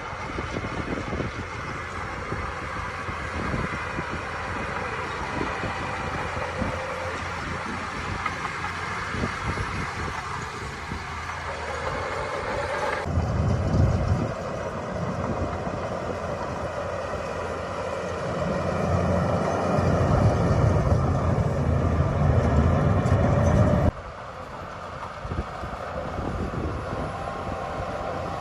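Diesel engines of heavy earthmoving machinery, a bulldozer and dump trucks, running. The sound changes abruptly about 13 and 24 seconds in, and the deep engine sound is loudest in the seconds before the second change.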